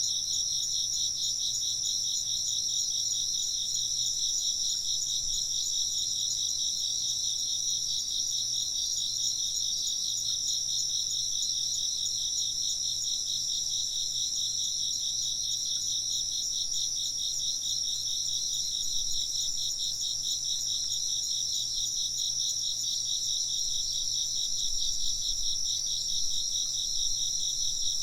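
A chorus of chirping insects: a steady high trill over a rapid, even pulsing chirp just below it, going on without a break.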